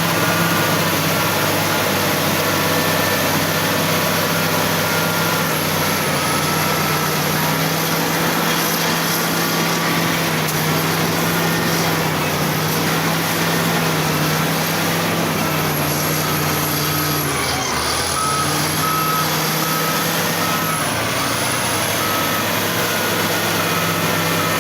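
Diesel engine of an XCMG ZL50GN wheel loader running steadily as it works, its note dipping briefly about two-thirds of the way through. A reversing alarm beeps in a steady pulse near the end.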